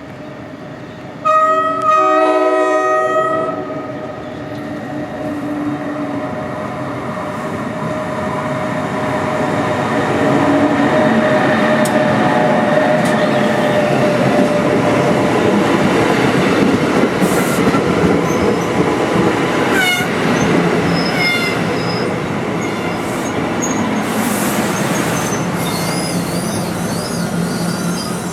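A train horn sounds a chord for about two seconds, about a second in. Then a train rolls past with a building rumble and clatter of wheels on rail, with brief wheel squeals near the end.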